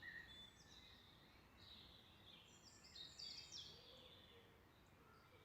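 Faint birdsong: several high chirps and short trills from small birds, busiest about halfway through, over quiet outdoor air.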